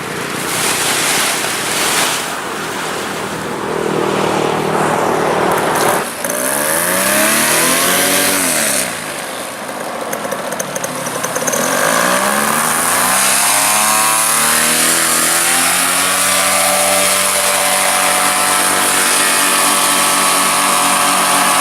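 A small propeller engine flying past, its pitch sweeping up and down as it passes, then holding a steadier high drone.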